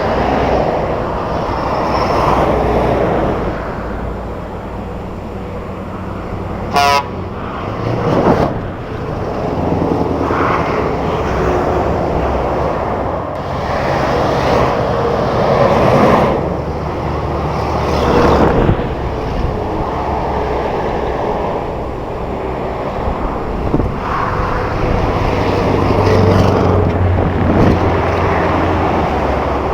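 Heavy trucks driving past, the engine and road noise swelling and fading several times. A short horn toot sounds about seven seconds in.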